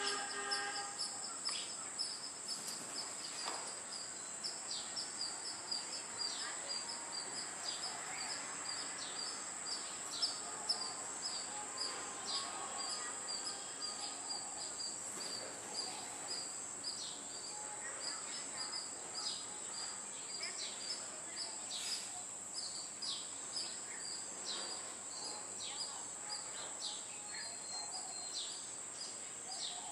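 Small birds chirping in quick, short, high notes, over a steady high-pitched insect drone. A distant train horn dies away about a second in.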